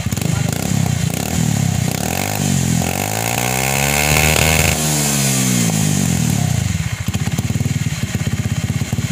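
Honda Beat scooter's single-cylinder four-stroke engine, breathing through a muffler with its baffles hollowed out, revved once: it rises from idle about a second and a half in, holds high for a moment and drops back to idle by about two-thirds of the way through.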